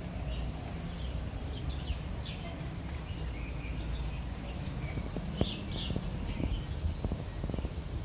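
Small birds chirping in short, repeated calls over a steady low rumble, with a few sharp clicks in the second half.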